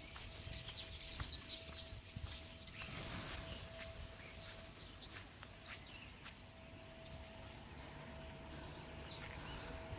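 Flock of common starlings chattering faintly, busiest in the first couple of seconds, with scattered clicks after. A faint steady hum runs underneath.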